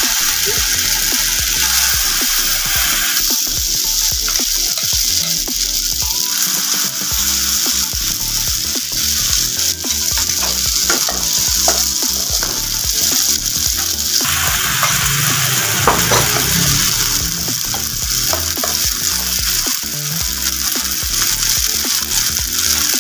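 Oat and apple batter patties sizzling in hot oil in a nonstick frying pan: a steady loud hiss with scattered crackling pops.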